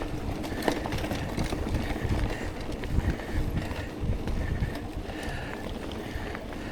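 Mountain bike rolling along a dirt singletrack trail: tyre noise and irregular knocks and rattles of the bike over bumps, with wind rumbling on the microphone.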